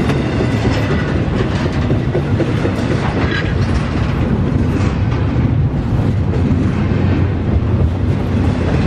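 Double-stack intermodal freight train of container-laden well cars rolling past at close range: a steady loud rumble of steel wheels on rail, with repeated clicks of wheels crossing the rail joints.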